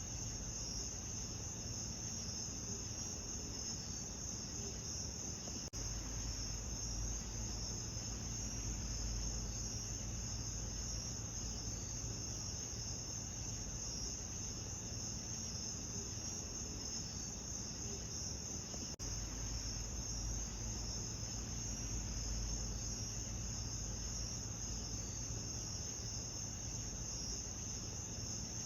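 Continuous insect chorus: a steady, high, finely pulsing trill of crickets over a low rumble. The sound drops out for an instant twice where the loop is spliced.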